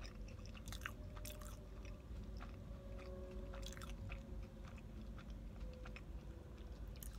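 A person chewing a mouthful of deep-dish pizza close to the microphone, in soft irregular chews with small crunches of crust. A faint steady low hum runs underneath.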